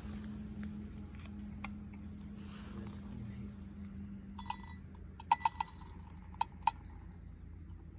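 Metal camp cookware clinking: about half a dozen sharp, ringing clinks in the second half, over a steady low hum.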